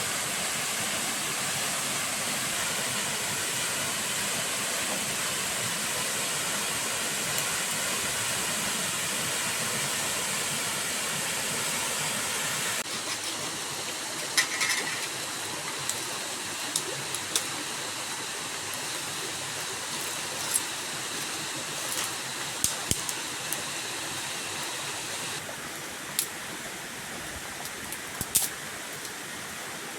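Steady rush of falling water. About 13 s in it becomes a little quieter, and from then on scattered sharp knocks and clicks sound over it.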